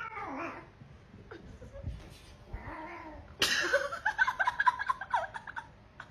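A cat meowing and yowling. Short gliding calls come first, then a louder run of drawn-out, wavering yowls starting about halfway through.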